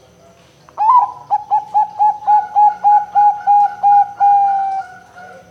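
Perkutut (zebra dove) cooing its song: a quick run of about a dozen short, evenly spaced notes, ending in one longer held note.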